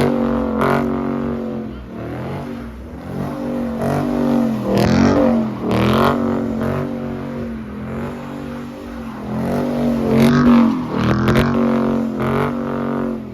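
Muscle car engine being revved over and over, its pitch repeatedly climbing and dropping back, with louder peaks partway through.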